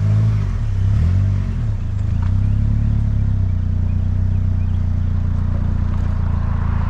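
Polaris Slingshot's engine pulling away with a loaded trailer in tow: the revs rise and fall twice, then the engine runs steadily.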